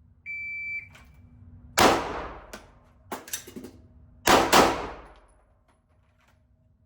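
A shot timer beeps once, then a pistol fires in an indoor range: one shot, a few fainter cracks, then two quick shots about a third of a second apart, each ringing off the walls.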